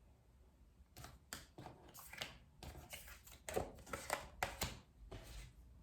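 Tarot cards being handled: a string of soft, quick card flicks and rustles as cards are moved and laid out.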